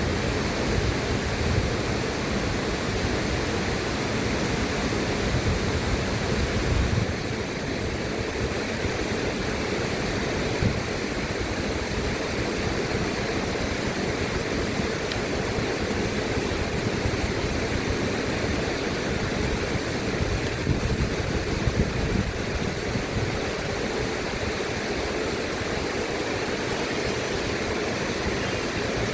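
River water flowing: a steady, even rushing noise, with a slight shift in tone about seven seconds in.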